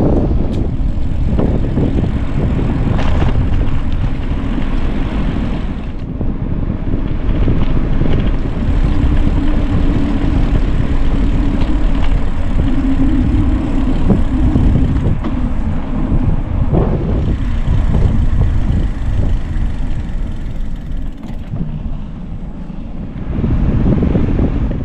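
Wind buffeting the microphone of a camera riding on a moving bicycle: a loud, steady low rumble, with a faint low hum coming and going in the middle.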